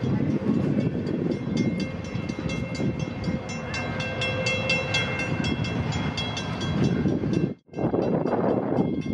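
Steam-hauled train rolling on its rails: a steady rumble of wheels with rapid clicking. A few thin, high, steady tones ride over it, and the sound drops out for a split second near the end.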